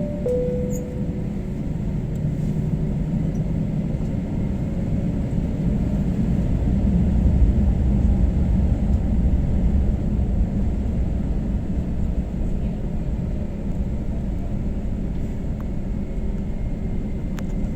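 Steady low rumble inside an airliner cabin on the ground after landing, with the last note of a falling two-tone cabin chime right at the start.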